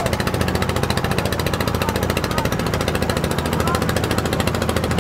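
Motorboat engine running steadily at speed, a rapid and even pounding.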